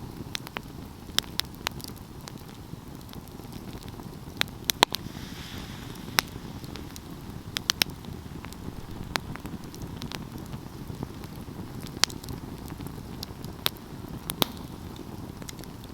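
Wood fire burning: a steady low rumble of flames with sharp, irregular crackles and pops scattered throughout.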